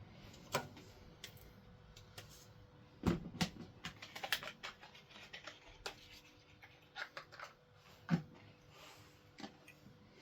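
Irregular light clicks and taps of small parts and hand tools being handled while working on the tractor's signal-light switch and wiring, with a sharper knock about three seconds in and another about eight seconds in.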